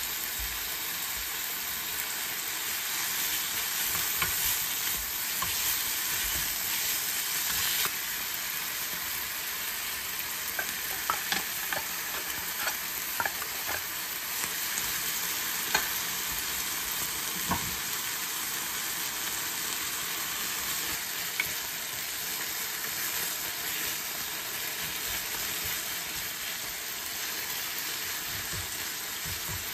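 Kimchi sizzling as it stir-fries in a pan, with a wooden spoon stirring and scraping through it. A scatter of sharp knocks comes about halfway through.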